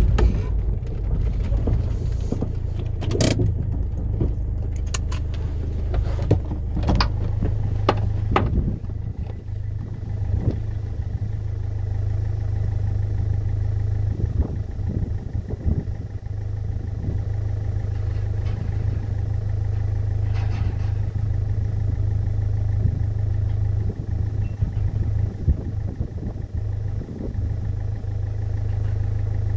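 Land Rover Freelander Td4's four-cylinder turbodiesel idling steadily, with a series of sharp clicks and clunks during the first eight or so seconds.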